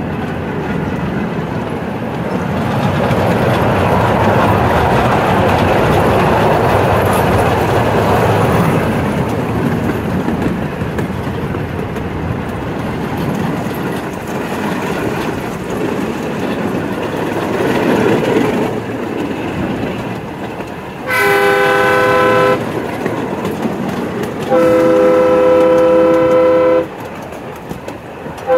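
Miniature ride-on railroad train rolling along its track with a steady rumble and rattle of wheels and open cars. In the last third its horn sounds a chord twice, a short blast and then a longer one, and a third blast begins at the very end, as the train nears a road crossing.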